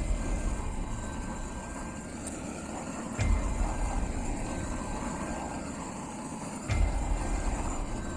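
Hammer blows on the warped steel sheet of a folding wood stove being straightened: two sharp strikes about three and a half seconds apart, each leaving a thin metallic ring. A steady low rumble runs underneath.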